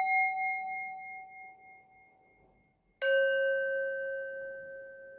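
Two struck, bell-like metal tones, each ringing out and slowly fading: the first, higher one dies away over about three seconds, and a second, lower one is struck about three seconds in and keeps ringing.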